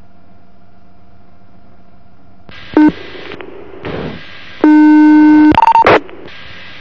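Police two-way radio channel: a low steady hum, then static hiss as transmissions key up and drop. Alert tones sound through it: a brief tone, then a loud steady buzzing tone lasting about a second, like a radio busy tone, followed by short higher beeps.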